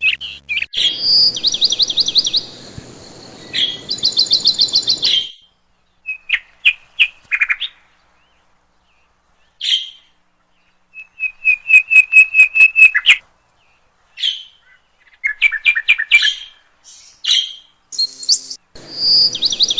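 Budgerigars chirping in quick, high trilled series of about eight notes a second, broken by pauses.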